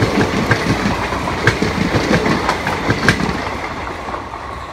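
Passenger train coaches running past at speed, the wheels clicking over rail joints against a steady rumble. The sound fades near the end as the last coach moves away.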